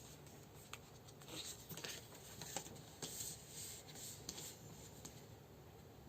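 Tarot or oracle cards being handled and shuffled: faint sliding swishes and soft clicks of card against card, scattered irregularly.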